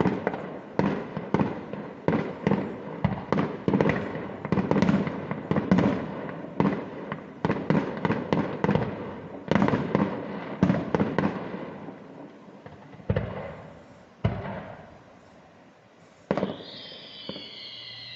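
Fireworks display: a rapid barrage of bangs, several a second, thinning out to a few scattered bangs. Near the end one more bang, followed by a high whistle that falls slowly in pitch.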